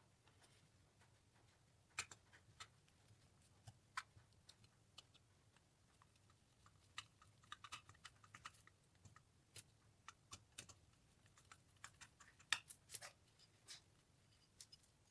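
Quiet, irregular light clicks and taps, a couple of dozen scattered with no even rhythm, over a faint low hum.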